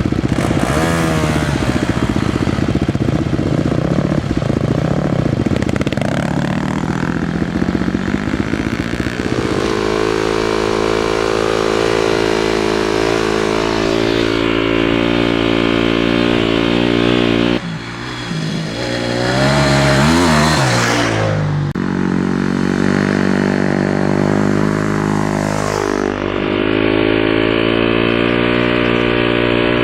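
Dirt bike engines running and revving, the pitch rising and falling with the throttle. The sound changes abruptly twice.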